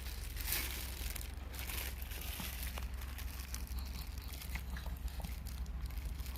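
Soft crinkling and scattered small clicking noises over a steady low hum.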